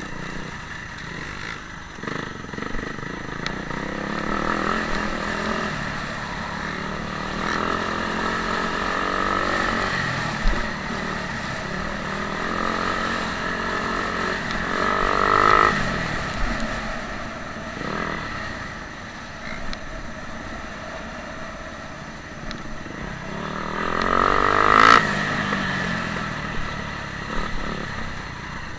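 Motocross bike engines revving up and down as the bikes ride the dirt track. One passes close about fifteen seconds in, and another, the loudest, near the end, its pitch dropping as it goes by.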